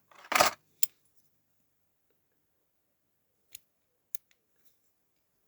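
Hands working the parts of a diecast model car loose: a short, loud scrape near the start, then a sharp click, and two faint clicks later on, with quiet in between.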